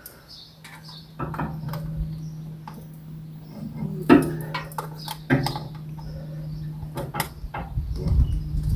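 Scattered sharp knocks and clanks of handling, with metal and hard objects being moved, over a steady low hum. A louder rumbling handling noise builds near the end.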